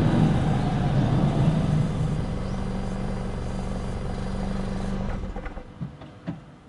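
Car running, heard from under the rear bumper: road and exhaust rumble, then a steady engine drone from about two seconds in. About five seconds in the running sound cuts out sharply, as when the engine is switched off, leaving a few faint clicks.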